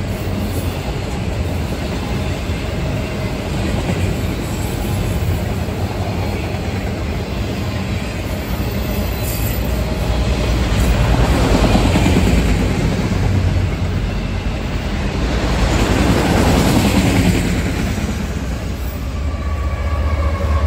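Freight train of autorack cars rolling past: a steady rumble and rattle of steel wheels on the rails, growing louder twice as cars pass close by.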